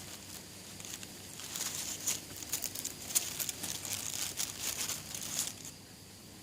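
Dry crinkling and rustling: a run of small crackles and clicks that starts about a second and a half in and stops near the end.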